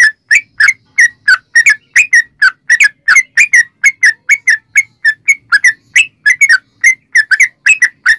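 Yellow-vented bulbul (trucukan) singing a long, unbroken run of short whistled chirps, about four notes a second, each swooping in pitch.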